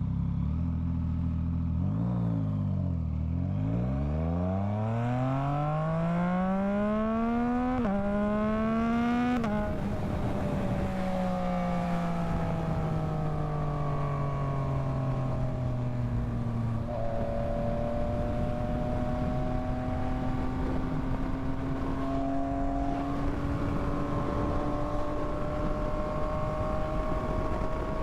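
Yamaha MT-09 inline three-cylinder engine idling, then revving up as the bike pulls away, with quick upshifts about eight and nine and a half seconds in. The engine note then falls as it slows, and after another shift it settles into a steady, slowly rising cruise.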